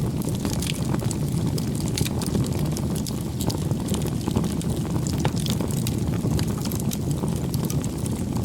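Wood bonfire burning, with a steady low rush of flame and frequent small crackles and pops from the burning wood at irregular intervals.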